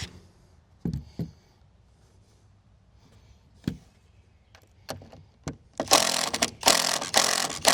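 A few scattered knocks of wood and tools, then a power drill running in two bursts near the end, driving screws into deck boards.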